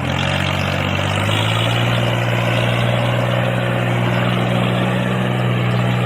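A small motor running steadily with a low, even hum, which changes slightly about a second in.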